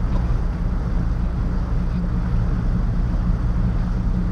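A motorboat's engine running steadily under way: a low, even drone with a steady rushing noise above it.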